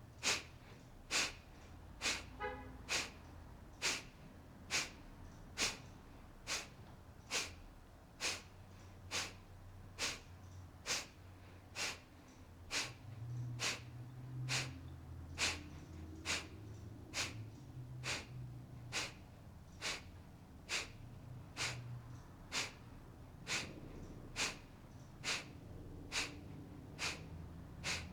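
Kapalabhati (Breath of Fire) breathing: short, forceful exhales pushed out through the nose in a steady rhythm, about one a second.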